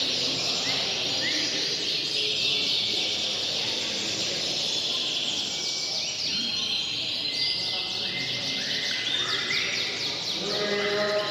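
Many canaries singing at once, a dense tangle of fast trills, chirps and held whistled notes, over a low murmur of people.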